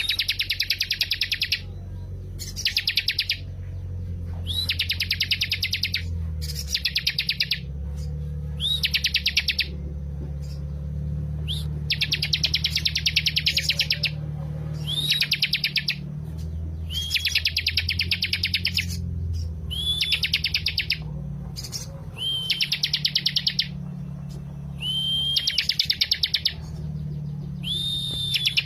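A bar-winged prinia (ciblek) singing its song over and over: each phrase is a short rising note followed by a fast, even trill about a second long, with a brief pause before the next, about a dozen phrases in all. A steady low hum runs underneath.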